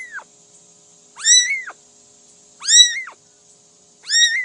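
A cat meowing over and over, a short high call that rises and falls, repeated about every second and a half.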